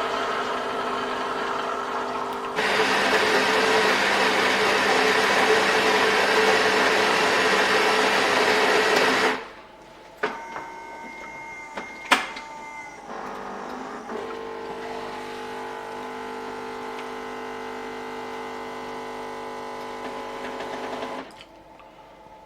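Melitta Latticia OT F300-101 fully automatic coffee machine running a brew cycle: a loud grinding run that stops about 9 s in, a few clicks with one sharp click, then a steadier, quieter pump hum that cuts off near the end.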